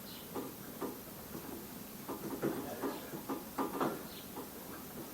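Irregular light knocks and clicks from hand work on a moped's front wheel and fork, several in quick succession near the middle.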